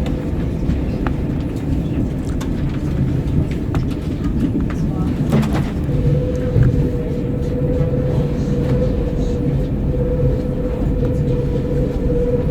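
Electric metre-gauge train (MOB Golden Pass panoramic train) running along the line: a steady low rumble with scattered clicks and knocks. A steady whine joins about six seconds in.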